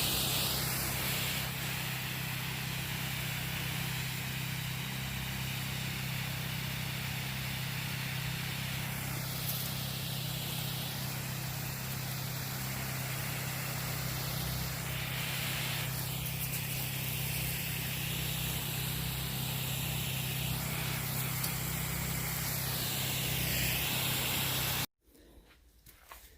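Motor-driven water pump on a 500-gallon tank running with a steady hum, while water sprays from a garden hose with a hiss that swells and fades as the stream is swung about. The sound cuts off suddenly about a second before the end.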